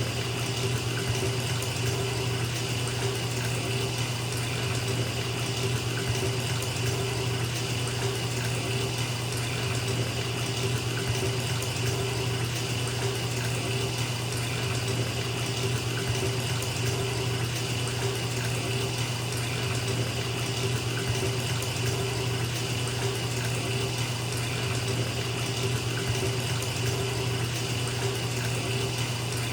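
Bathtub tap running steadily into the tub: an even, unbroken rush of water with a low hum beneath it.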